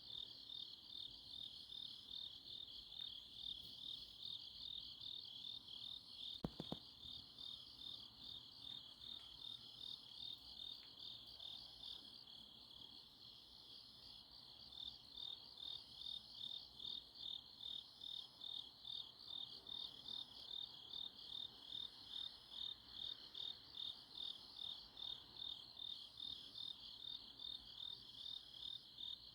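Crickets chirping on an autumn night: a continuous high-pitched trill made of rapid, regularly pulsing chirps. A brief double knock sounds about six seconds in.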